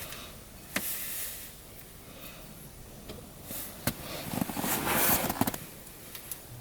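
Hand tools and metal engine parts being handled: a sharp clink a bit under a second in, another near four seconds, then a stretch of rustling and scraping with small clicks.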